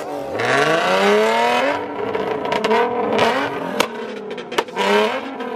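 Nissan 370Z's 3.7-litre V6 free-revved hard three times while parked, the engine note climbing and dropping back each time, with a few sharp cracks between the revs.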